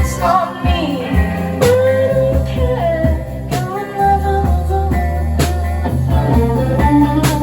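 Live rock band playing a passage without words: guitar over held bass notes, with a sharp hit about every two seconds.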